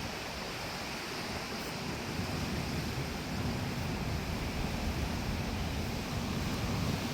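Steady rush of ocean surf with wind buffeting the microphone, swelling slightly from about two seconds in.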